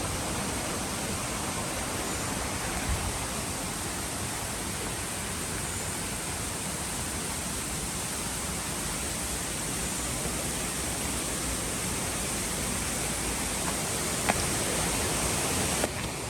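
Steady rush of a mountain stream or small waterfall flowing close by, an even unbroken sound that drops abruptly about a second before the end.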